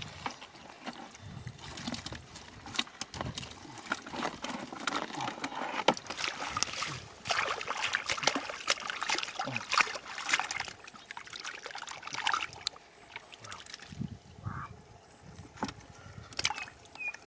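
Shallow water splashing and sloshing in irregular bursts, as catfish are hunted and grabbed by hand in a flooded field.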